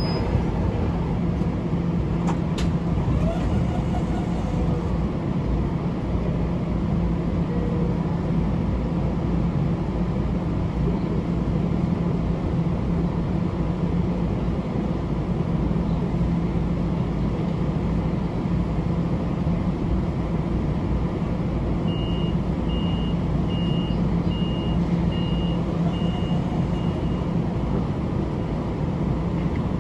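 Steady mechanical rumble and hum of a Long Island Rail Road train at the station, with a run of about seven short, evenly spaced high beeps late on.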